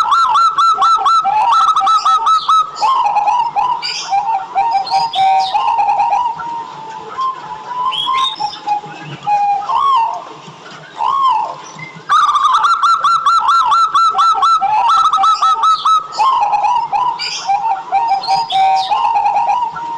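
Zebra dove (perkutut) singing: a fast run of clipped notes, then lower rolling coos. The phrase starts again about twelve seconds in.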